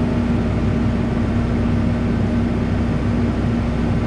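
Backhoe's diesel engine running steadily, heard from the operator's seat, with a constant low drone and a steady hum.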